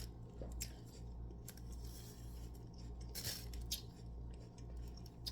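A few short scraping and clinking sounds of kitchen utensils being handled, the loudest about three seconds in, over a steady low hum.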